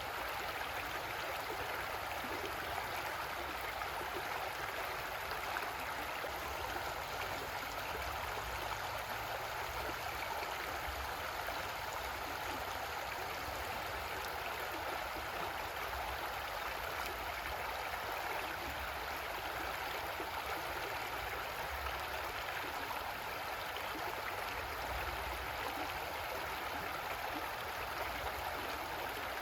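Creek water flowing over rocks, a steady even rush and babble with no breaks.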